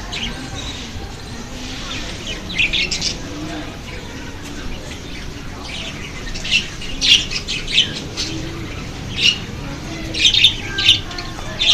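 Birds chirping in short high bursts, in clusters of a few quick notes with brief gaps between them.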